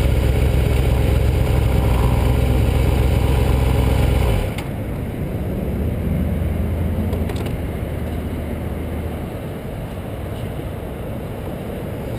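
Yamaha YZF-R6 inline-four sportbike engine running steadily. About four seconds in, its sound drops abruptly to a quieter, weaker note that fades further near the end.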